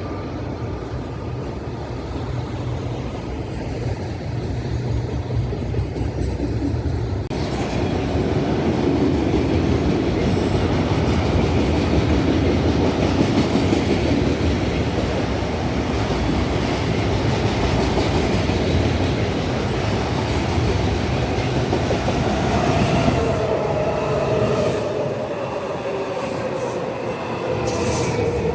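WMATA Metrorail Red Line train running along the track with a steady rumble and wheel-on-rail noise, growing louder about seven seconds in. Near the end a whine falls in pitch as the train slows.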